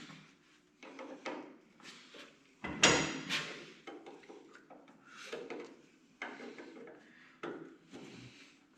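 Irregular metal clunks and scraping as a tractor's three-point hitch lift arm and its pivot pin are worked loose and pulled out, with the loudest clank about three seconds in.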